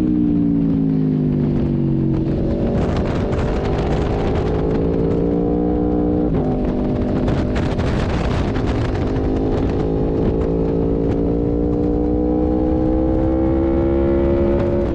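Aprilia RSV4 1100 Factory's V4 engine at speed on a race track, with wind rush on the onboard microphone. The engine note falls for the first two seconds as the bike slows, climbs again, drops suddenly at an upshift about six seconds in, then rises steadily under hard acceleration.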